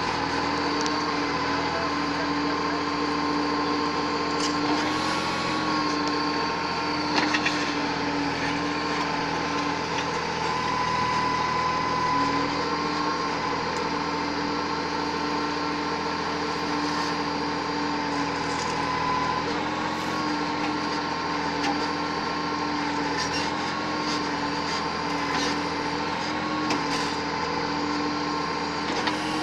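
Engine of heavy farm or earth-moving machinery running steadily at a constant speed, with a few short clanks or clicks scattered through.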